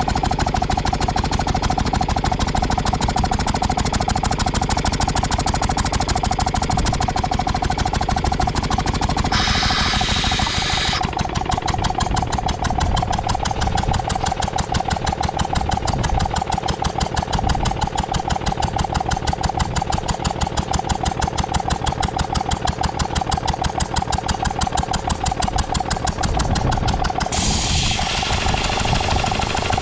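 Ruston & Hornsby 2PS vintage petrol-engined air compressor running steadily with a rapid, even beat and a steady whine. A loud hiss cuts in for about a second and a half about nine seconds in, and again near the end.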